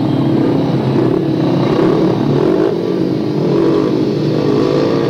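Speedway bikes' 500cc single-cylinder methanol engines running and revving at the start gate, their pitch wavering up and down.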